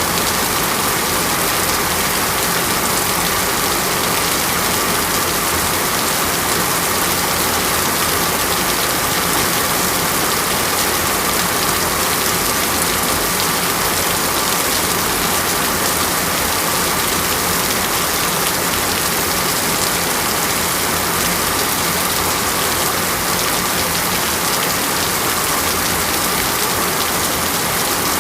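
Steady rain falling, a dense, even patter of raindrops on surfaces that never lets up.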